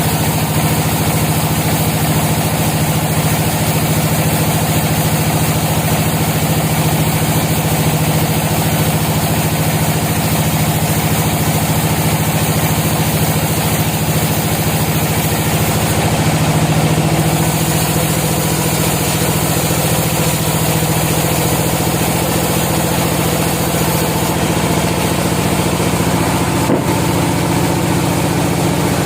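Sawmill machinery running steadily with a constant engine-like hum. The tone shifts slightly about two-thirds of the way through, and there is one short click near the end.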